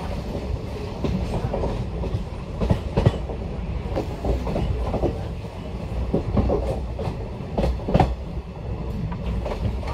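Sealdah–Agartala Kanchanjunga Express passenger coach running along the track, heard from an open doorway: a steady low rumble of wheels on rails with irregular clickety-clack knocks and clanks, two of them sharper than the rest.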